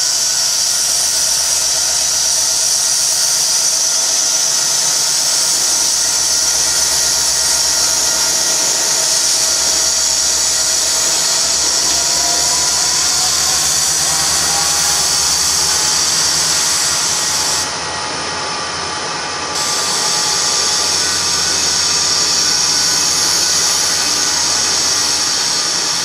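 Norfolk Southern diesel-electric freight locomotives passing close by as they pull a departing freight train, engines working under load, with a whine that rises in pitch about halfway through. Steady rolling noise of the cars follows the locomotives.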